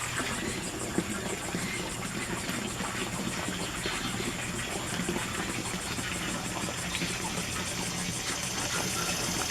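A steady low motor hum with a single faint knock about a second in.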